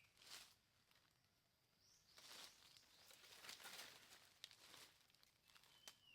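Faint rustling and crackling in short spells, with a few light clicks, and a single short falling bird note near the end.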